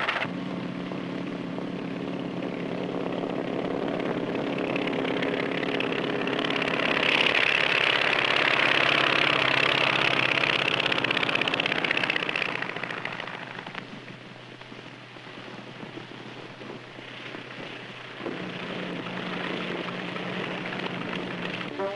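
Light propeller aircraft's engine running. The noise swells to its loudest over several seconds and fades about two-thirds of the way in, then a steady engine drone returns near the end.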